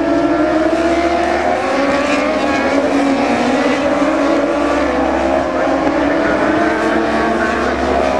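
Several racing motorcycle engines at high revs, pitch climbing and dropping back as the bikes accelerate and change gear.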